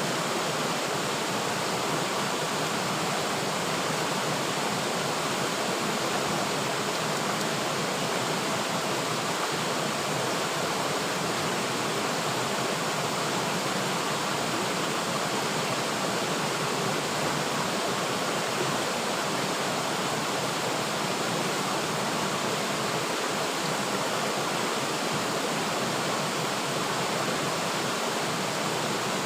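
River water flowing and rushing steadily, an even hiss without breaks or changes.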